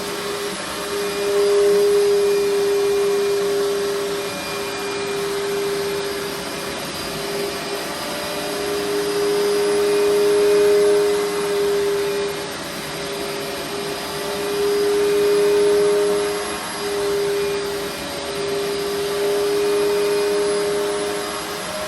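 Hoover SteamVac carpet cleaner running, its motor giving a steady whine over a rushing noise. The level swells and dips every few seconds as it works over the carpet.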